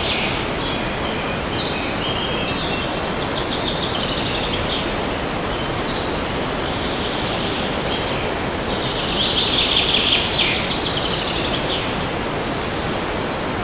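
Steady rushing of wind in forest trees, with songbirds singing over it: scattered short chirps, then a louder trilling song phrase about nine to ten and a half seconds in.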